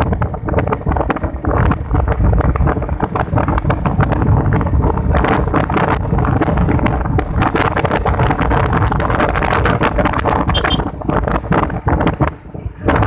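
Wind buffeting the microphone while riding a motorcycle, with the engine running steadily underneath; the rumble drops briefly near the end.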